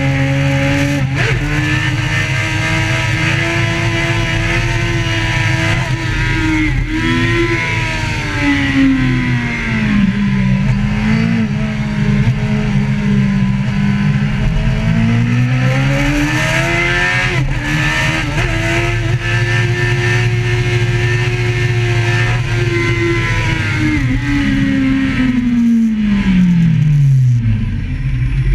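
A vehicle engine running hard, its pitch rising and falling slowly as the revs change, with a long falling drop in pitch near the end.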